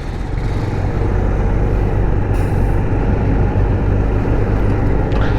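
Motorcycle engine running as the bike rides off, with road and wind noise; it grows a little louder early on and then holds steady.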